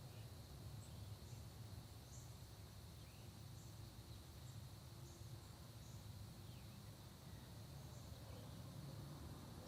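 Faint early-morning countryside ambience: a steady high insect trill, with scattered short bird chirps and brief down-slurred calls over a low rumble.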